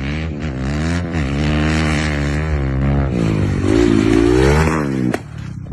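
A motor vehicle engine running and revving, its pitch wavering and then climbing near the end. About five seconds in it cuts off with a sharp knock, and rougher scraping noise follows.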